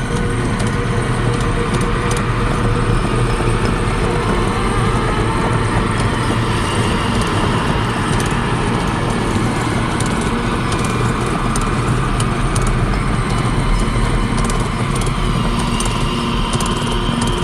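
Small mini bike engine running steadily, with a couple of faint rising whines about six seconds in and near the end.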